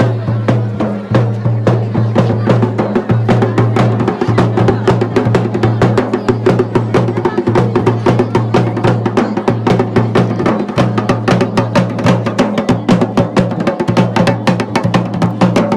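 Fast, continuous drumming, many strokes a second, over a steady low drone that drops out briefly a few times.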